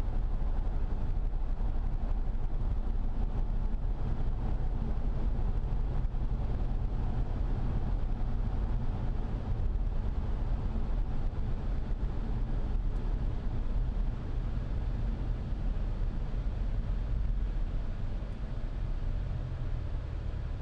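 Inside the cabin of a Ford Fusion Sport, its 2.7-litre twin-turbo V6 under light load at low revs, around 1700 rpm: a steady low exhaust drone through a Magnaflow axle-back with both resonators deleted, about as loud as the car gets in the cabin. It eases slightly near the end.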